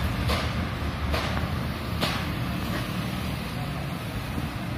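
Passenger train running away down the track, a low rumble that slowly fades, with the clack of wheels over rail joints three times in the first two seconds.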